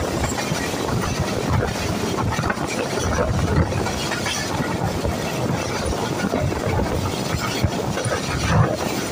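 Passenger train coaches running along the track, a steady rumble and rattle of wheels on rails with a few faint clicks now and then.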